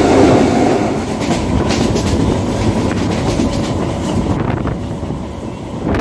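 Mumbai suburban local train running, heard from aboard: steady rumble with wheel clatter on the rails. A train passing on the next track makes it loudest at the start, easing after about a second.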